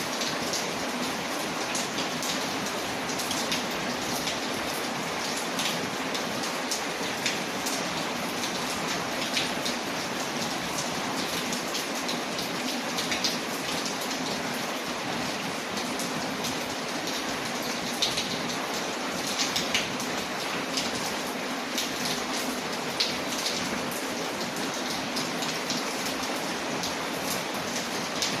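Steady rain falling on a window, mixed with a crackling wood fire: an even wash of rain with scattered sharp crackles throughout.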